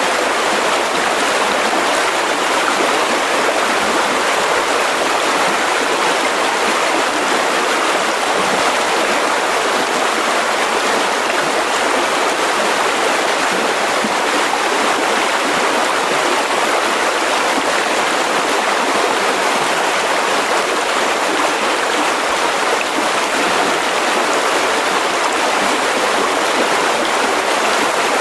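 Mountain river rushing over rocks, a steady, even flow of water.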